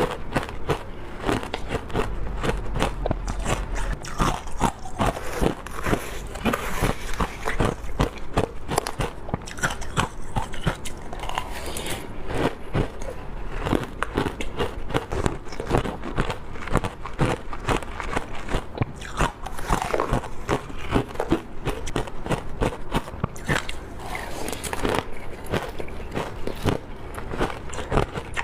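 Teeth biting into wet frozen matcha ice, a dense run of sharp crunches and crackles one after another.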